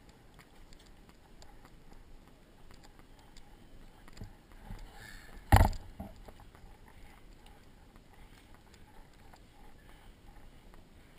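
Faint, irregular footsteps, with one loud, sharp knock about halfway through.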